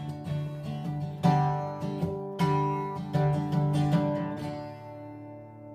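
Acoustic guitar strumming the closing chords of a country song, a handful of strokes, then the last chord left ringing and fading away.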